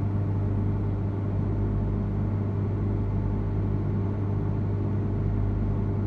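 Steady low electrical hum with a few overtones, from a standing train's onboard equipment at the platform.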